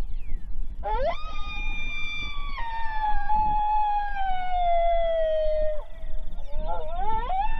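Coyote howl played through an electronic predator call: one long call that swoops up, holds, then slowly falls in pitch over about five seconds, with a second rising howl near the end.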